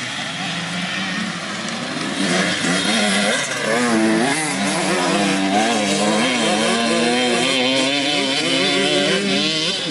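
Motocross dirt bikes on the track, their engines revving up and down and getting louder about two seconds in.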